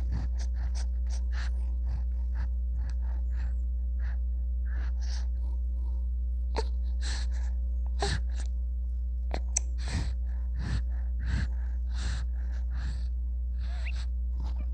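A newborn baby's quick gasping breaths and small snuffling noises, a few each second, over a steady low hum.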